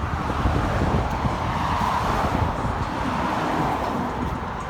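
A car running nearby: a steady rushing rumble.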